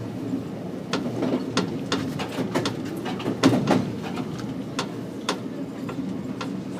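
Train rolling over the track: a steady low rumble from the moving car, broken by many sharp, irregular clicks and knocks of the wheels crossing rail joints and switches, with a louder cluster about halfway through.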